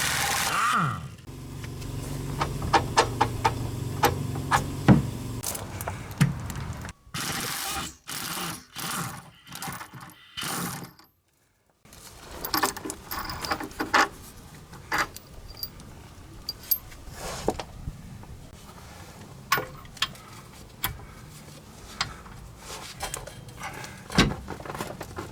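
Tools and metal parts being worked while a car's rear differential is unbolted and removed. A loud burst of noise at the start gives way to a long run of metallic clicks, clinks and knocks, broken by several abrupt cuts.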